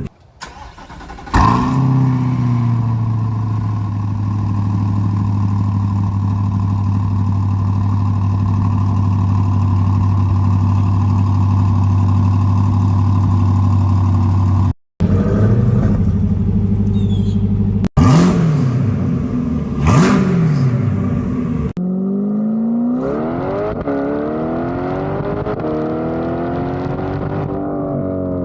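C8 Corvette V8 through a center-exit track exhaust, idling steadily with a deep hum, then blipped several times in separate short clips, its pitch shooting up and dropping back; near the end it is revved in longer rising and falling sweeps.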